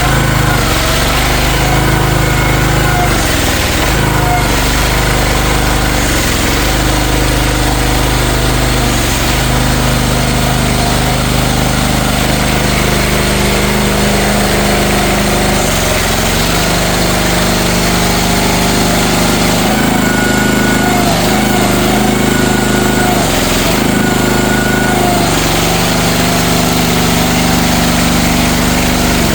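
CFG MX15RX mini excavator engine running while it warms up after a start. It runs steadily, with its engine speed briefly dipping and recovering several times.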